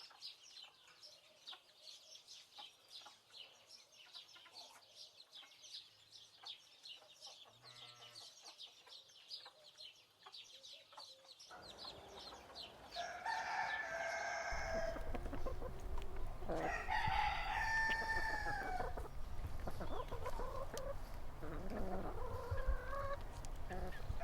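Chicks peeping rapidly and continuously in thin, high notes. About halfway through, the sound changes to louder hen clucking and a rooster crowing, with wind rumble on the microphone.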